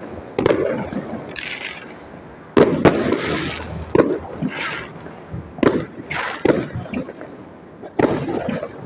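Aerial fireworks going off: a sharp bang every second or two as shells burst, each followed by a fizzing crackle of stars. A falling whistle sounds right at the start.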